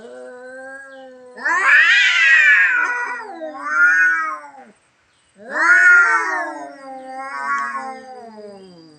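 A stray tomcat yowling (caterwauling) in long, drawn-out, wavering calls that rise and fall in pitch. There are two loud bouts with a short break between them.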